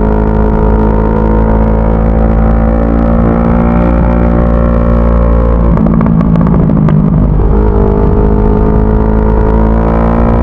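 CFMoto 400NK motorcycle's parallel-twin engine running at a steady cruising pace, with a brief rougher, shifting stretch about six seconds in.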